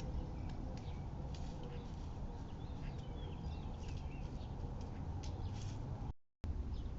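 Outdoor backyard ambience: a steady low rumble with scattered faint ticks and a few faint bird chirps about three to four seconds in. The sound cuts out completely for a moment near the end.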